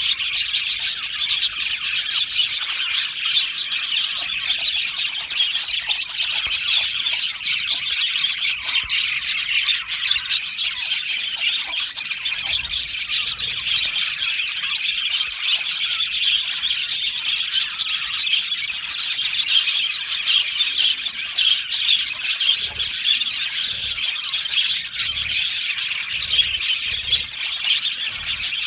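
A flock of budgerigars chirping and warbling together: many quick, overlapping chirps without a break.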